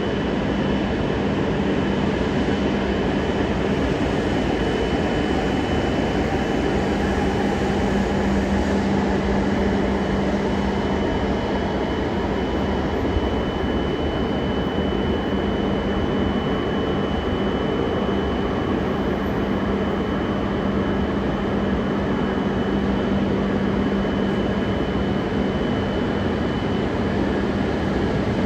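E956 ALFA-X shinkansen test train at the platform, giving a steady mechanical hum with a constant low drone and a faint high whine.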